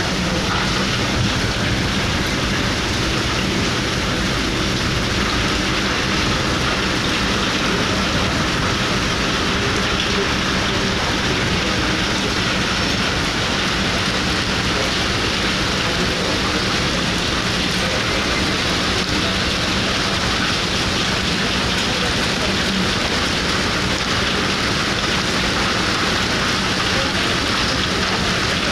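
Steady hiss of heavy rain falling on a ferry deck and the water around it, with the low, even drone of the ship's engine underneath.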